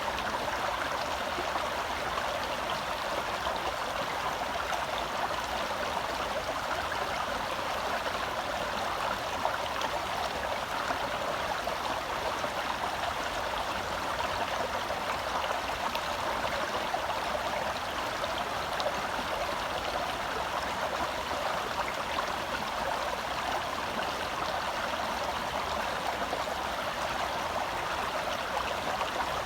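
Forest stream flowing over rocks: steady rushing and burbling water with no letup.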